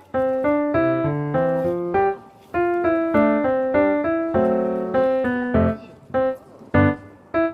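Background piano music: a melody of short notes and chords, with brief pauses about two seconds in and again near the end.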